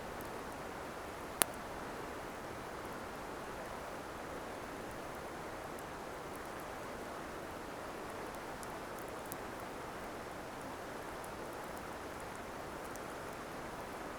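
Wood campfire burning: scattered small crackles and one sharp pop about a second and a half in, over a steady hiss.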